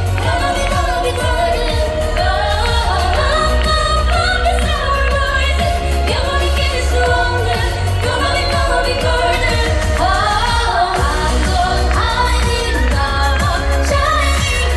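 Korean traditional-style singing (K-sori) over instrumental backing with a steady low bass, the voice sliding up into notes several times.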